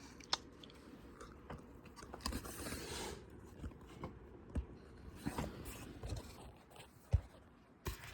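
Light handling noises: scattered small clicks, taps and scrapes of objects being picked up and moved, with a sharper tap about seven seconds in.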